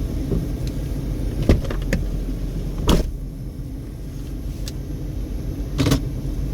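Car engine running with a steady low rumble, heard from inside the cabin. Three short sharp knocks or clicks cut across it, about one and a half, three and six seconds in, the middle one the loudest.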